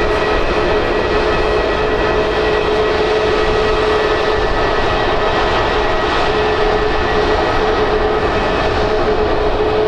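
Jet airliner engines running steadily, a constant roar with a steady whine over it and no change in pitch or level.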